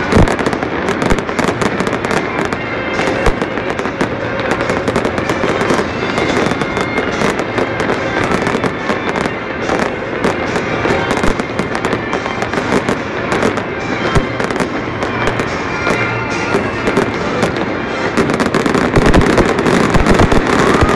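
Aerial fireworks going off in dense, rapid crackling and popping. Louder booms come near the end.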